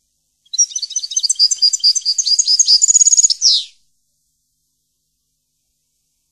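A songbird singing one fast, varied phrase of high chirps and trills, about three seconds long, ending in a quick downward sweep.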